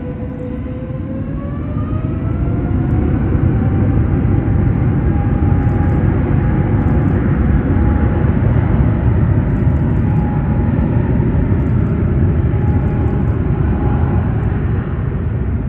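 Jet airliner engines spooling up: a whine rises in pitch over the first few seconds and then holds steady over a loud, heavy rumble.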